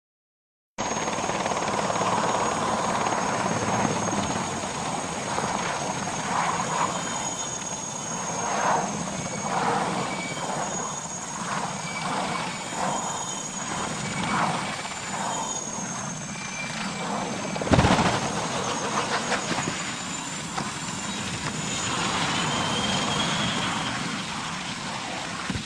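Military helicopter running: steady rotor and engine noise with a high turbine whine, cutting in abruptly just under a second in. A single sharp, loud thump stands out about eighteen seconds in.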